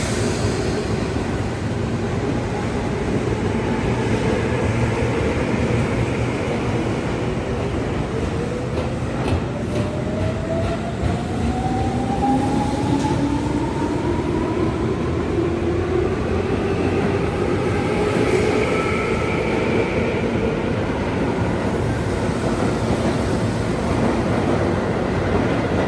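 Tobu 9000-series electric train pulling away, its chopper-controlled traction motors whining in tones that rise steadily in pitch as it gathers speed, over rumble and wheel clatter on the rails.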